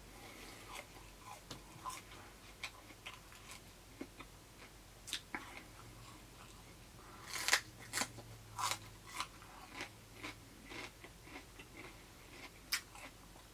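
Crunchy raw fruit and vegetables being bitten and chewed: a series of sharp crunches with chewing between them, loudest in a cluster a little past halfway.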